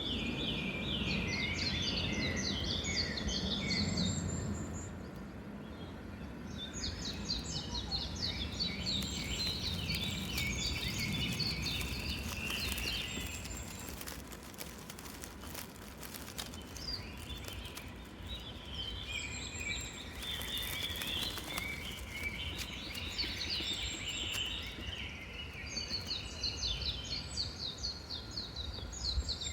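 Woodland ambience: small songbirds singing rapid twittering phrases, repeated again and again with short pauses, over a low steady background rumble.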